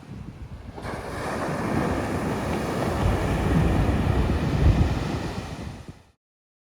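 Wind buffeting the microphone over the rush of ocean water and waves, a steady hiss with gusty low rumbles; it cuts off abruptly about six seconds in.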